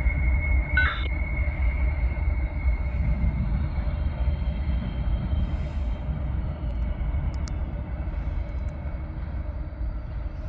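CSX freight train rolling past with a steady low rumble that slowly grows quieter. A thin high wheel squeal is strongest in the first couple of seconds and then fades. There is a brief click about a second in.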